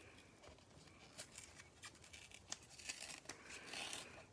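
Faint clicks, scrapes and tearing as a cardboard trading-card hanger box is opened and its cards handled, getting busier after about a second.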